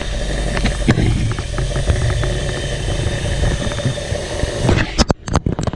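Carbureted Ford 302 V8 idling steadily with a rough, low rumble. Near the end, a run of sharp clicks and knocks.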